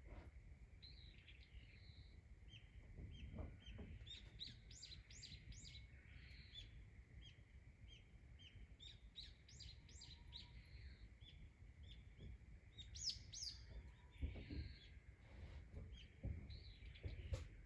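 Small songbirds chirping and twittering in quick short notes, over a faint steady high-pitched drone.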